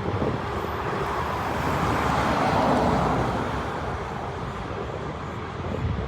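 Jet engine noise of a landing Boeing 747 passing close by, its four turbofans swelling to a peak about halfway through and then fading away.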